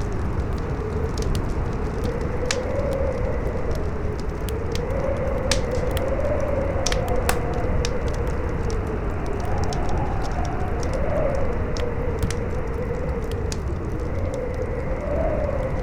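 Howling wind, a whistling tone that wavers up and down in pitch, over the steady hiss and scattered sharp pops and crackles of a burning campfire.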